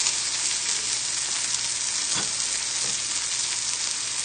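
Chicken breasts sizzling steadily in a hot pan as they sear.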